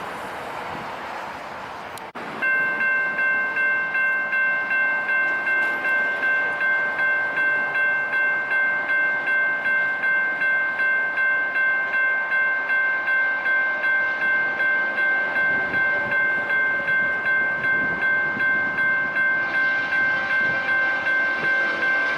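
Railroad grade-crossing bell ringing steadily at about two strikes a second, starting abruptly about two seconds in after a stretch of rushing noise. Near the end more sound joins the ringing.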